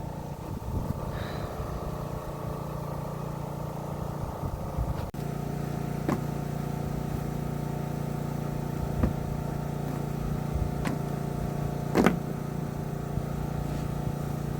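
An engine running with a steady low hum, with a few faint knocks and one louder knock about twelve seconds in.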